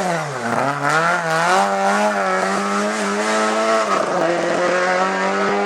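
Hillclimb race car engine at high revs: its pitch dips sharply about half a second in, then climbs back and holds high and fairly steady.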